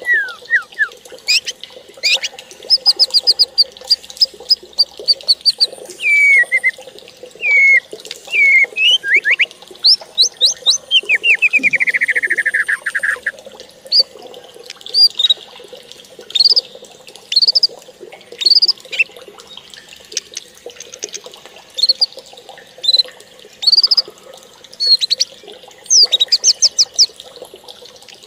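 Birds singing and calling: many short, high whistled notes and slurs, some in rapid series, with a fast run of notes about eleven seconds in.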